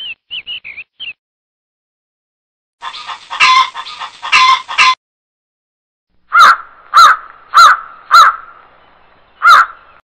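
Bird calls: a few short high chirps at the start, then about two seconds of harsh chicken clucking, then five loud caws of a corvid, four in quick succession and a last one after a short pause.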